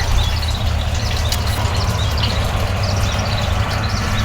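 Steady rain with a low rumble underneath, while a bird repeatedly sings short runs of descending high notes.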